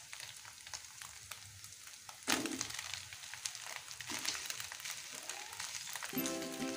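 Scrambled egg, shallots, garlic and chilies frying in a nonstick pan, a steady crackling sizzle. About two seconds in there is a loud thump as cooked rice is tipped into the pan, followed by a spatula scraping and stirring the rice through the hot oil.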